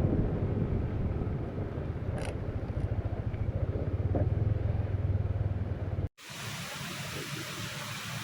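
Motorcycle running on the road with wind buffeting the microphone, a heavy low rumble. About six seconds in the sound cuts out for a moment and gives way to a quieter, steady, even hiss.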